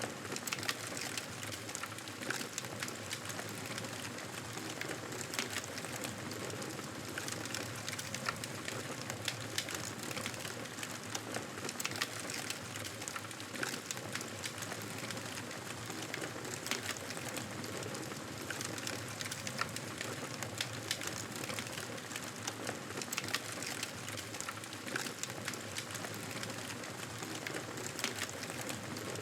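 Wood fire in a fireplace crackling steadily, with many small sharp pops over a constant hiss.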